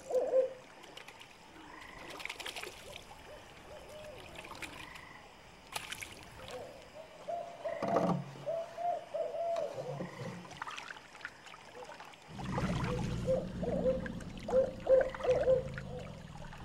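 Frogs calling in a night swamp: series of short, repeated croaking notes. A few sharp knocks sound along the way, and a low rumbling background comes in for the last few seconds.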